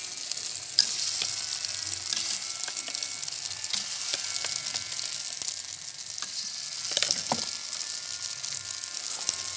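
Flour-and-tapioca batter topped with egg frying in a round multi-cup frying pan, a steady sizzling hiss. A few sharp clicks stand out, about a second in and twice around seven seconds in.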